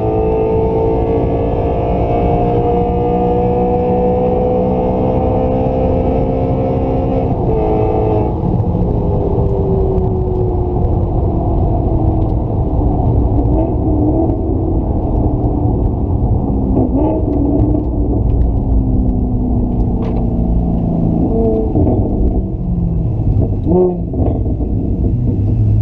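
A car's engine at speed under heavy low rumble, its note climbing slowly, then breaking off sharply about seven seconds in and falling steadily as the car slows, with a few brief jumps in pitch near the end.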